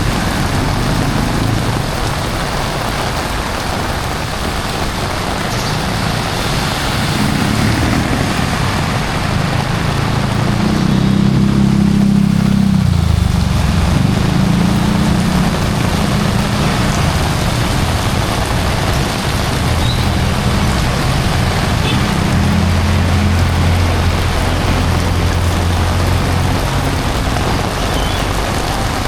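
Heavy rain hissing over city street traffic, with vehicle engines running and passing; one vehicle passes loudest about twelve seconds in.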